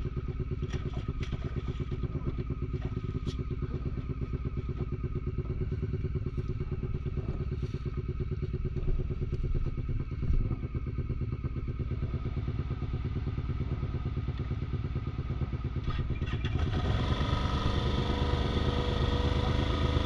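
Quad bike (ATV) engine idling steadily, with a few light clicks, growing louder about three-quarters of the way through.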